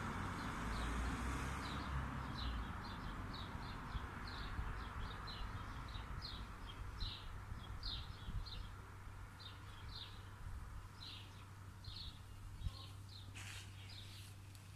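A small bird chirping over and over, short high calls roughly two a second, over a steady low hum.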